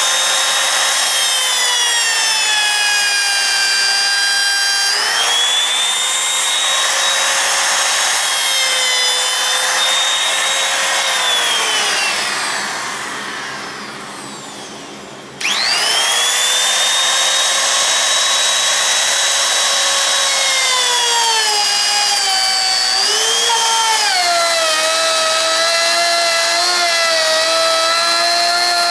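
Electric router with an angled laminate-trimming bit running with a high whine while cutting plastic. About halfway through it is switched off and winds down, falling in pitch and fading. It then starts again abruptly and spins up, and later its pitch sags and wavers as the bit bites into the plastic.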